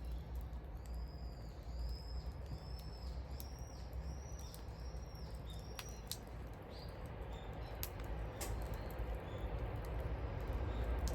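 A bird sings a run of eight or so repeated, arching whistled notes, a little under two a second, for the first six seconds. Throughout, a wood bonfire crackles with sharp pops over a low steady rumble.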